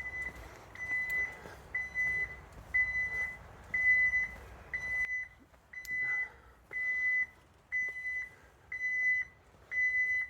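Security alarm keypad beeping its entry-delay warning, a high steady tone about once a second, a signal that the system must be disarmed before the alarm sounds. A low hiss underneath drops away about halfway through.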